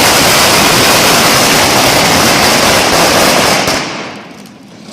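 Fireworks crackling in a loud, rapid barrage that dies away about four seconds in.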